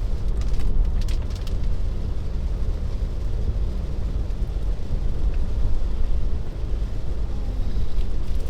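Cabin noise of a Tesla driving in heavy rain: a steady low rumble of tyres and rain on the wet road, with a few short hissing sweeps about a second in.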